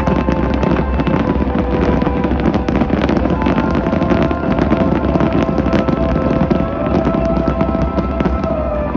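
Fireworks bursting and crackling in a dense, continuous stream of pops, over music with long held notes.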